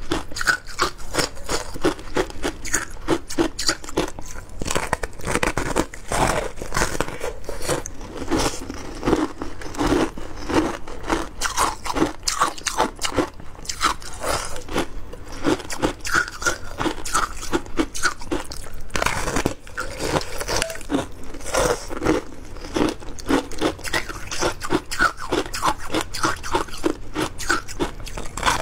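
Close-up crunching and chewing of shaved ice, dense rapid crackles with no pause.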